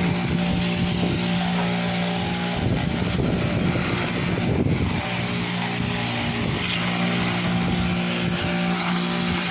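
Electric motor-driven machine running with a steady hum over a hiss, briefly breaking off about halfway through and again a little later.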